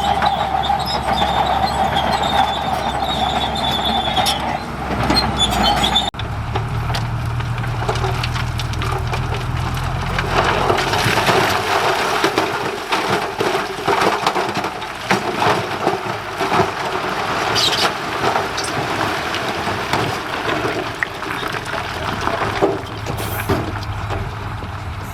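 Heavy earthmoving machinery working, engine running under a steady high squeal. About six seconds in the sound changes abruptly to a lower engine note with many knocks and scraping.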